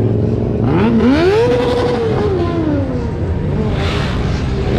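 Motorcycle engine revving: its note climbs quickly, holds briefly at the top, then drops back down over a couple of seconds, over a steady low rumble of other idling engines.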